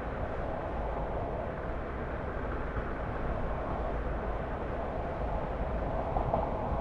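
Car driving at road speed: a steady rumble of tyre and road noise with the engine underneath.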